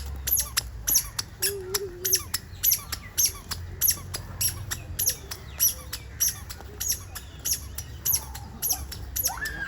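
Birds calling: a rapid, even string of short, sharp, high-pitched squawks, about three a second, over a low background hum.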